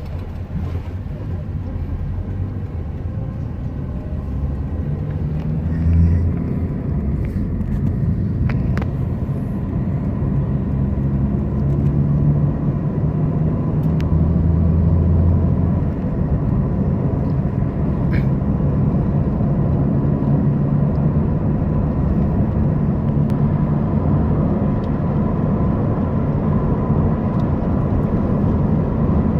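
Steady low rumble of a car's engine and road noise heard from inside the cabin while driving. Now and then a faint tick sounds.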